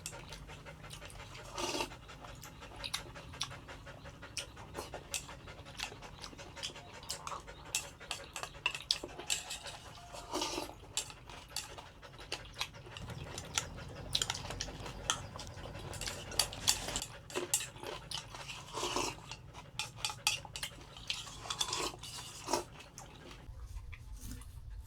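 Dalmatian panting, with frequent small clicks and taps throughout.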